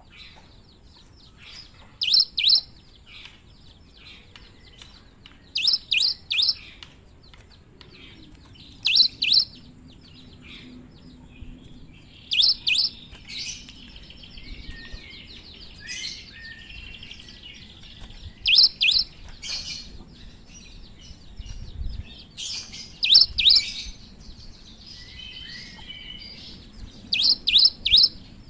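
Cinereous tit (gelatik batu) singing: short phrases of two or three loud, sharp notes repeated every three to four seconds, with softer twittering in between.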